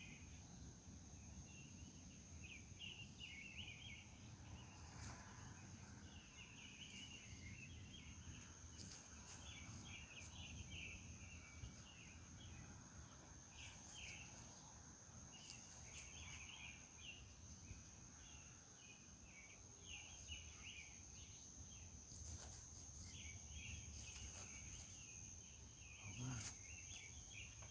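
Faint night chorus of insects: a steady high-pitched trill with irregular clusters of raspy chirping over it. A brief low thump near the end.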